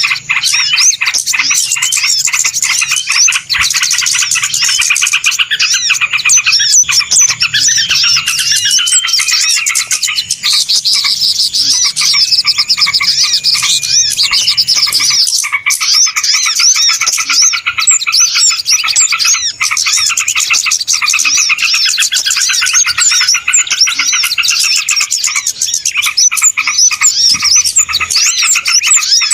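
Bird-lure recording: a loud, dense chorus of many small birds chirping and twittering rapidly without pause, the noisy flock sound played to draw small birds in.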